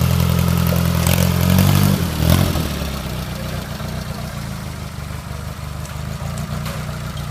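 Motorcycle engine running at a steady raised speed. About two seconds in it drops back to idle, then idles with an even low pulse.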